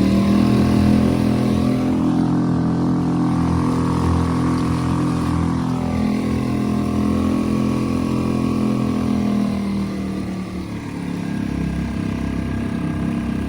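2.5 hp Suzuki four-stroke outboard motor running steadily at an easy cruising speed, pushing a kayak. About ten seconds in it eases off a little and gets quieter, then keeps running.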